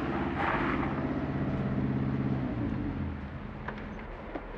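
Sports car engine running steadily as the car pulls up, with a short rushing noise about half a second in. The engine dies away and stops about three seconds in, followed by a few light clicks.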